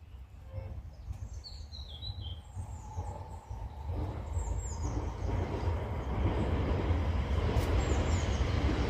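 Small birds chirping a few short falling calls over a low wind-like rumble. From about halfway in, a steady rushing noise swells and grows louder.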